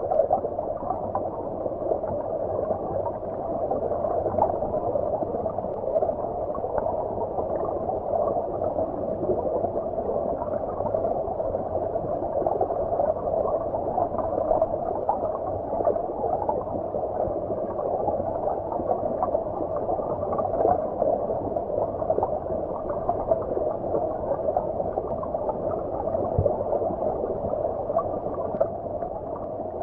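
Shallow forest stream flowing, heard from underwater: a steady, muffled rush of water with no high hiss.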